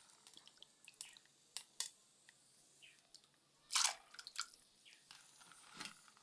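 Scattered light clicks and knocks of kitchen handling, with a short rush of noise about four seconds in and a smaller one near the end.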